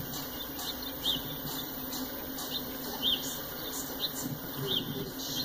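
A small bird chirping repeatedly, short high chirps about every half second to second, over a steady low hum.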